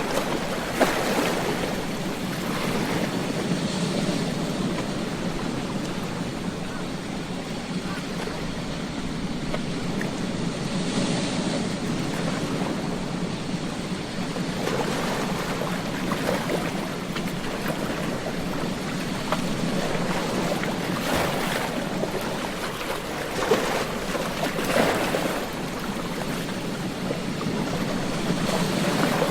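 Ocean waves breaking on a beach: a continuous wash of surf that swells with each breaking wave every few seconds.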